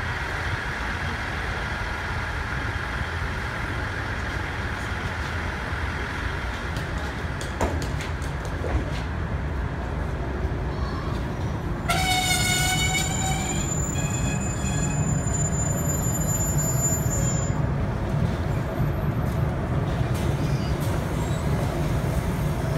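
A JR 719 series electric train pulls into the platform and stops, its running rumble growing louder. About twelve seconds in, a short high tone with several overtones sounds for about a second and a half, and then the standing train hums steadily.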